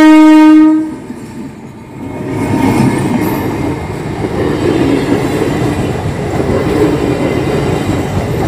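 A passenger train's horn sounds one steady, loud note that stops about a second in. After a short lull, the train's coaches roll past with a steady rumble and clatter of wheels on the rails.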